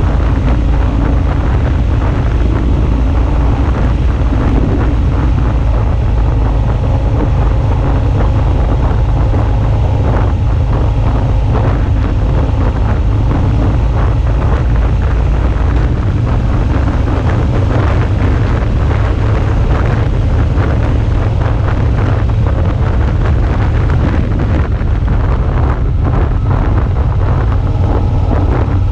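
Suzuki V-Strom 650's V-twin engine running while the motorcycle is under way, mixed with heavy wind rush on the action camera's microphone.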